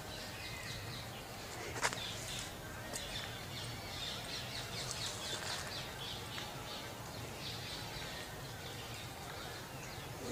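Small birds chirping again and again over a steady outdoor background hiss, with one sharp click about two seconds in.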